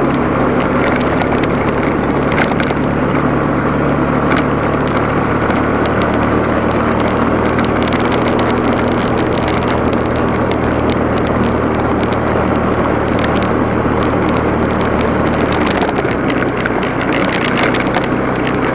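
Motorcycle engine running steadily under way, mixed with wind and road noise and scattered clicks and knocks. The engine note changes about sixteen seconds in.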